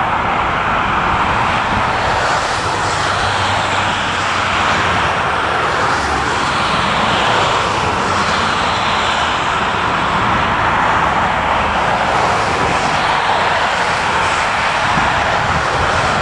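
Jet airliner's engines running, a loud steady noise with no clear change in pitch.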